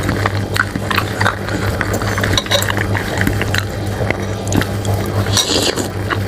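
Close-miked eating of bakso meatball soup: a run of small clicks and clinks of a spoon against the bowl, with liquid sounds of the broth and a short hissy slurp about five and a half seconds in. A steady low hum runs underneath.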